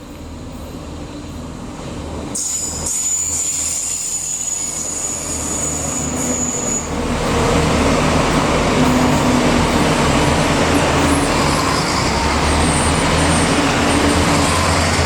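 Irish Rail 29000 class diesel multiple unit approaching and passing: the engine and wheels on the rails grow louder, with a thin high-pitched whine for a few seconds before the train reaches the spot. From about seven seconds in there is a steady loud rush of wheels and engine as the carriages go by.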